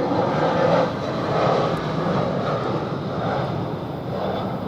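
easyJet Airbus A320-214 airliner with CFM56 turbofan engines passing on its approach to land. Its jet noise is steady and eases slightly toward the end.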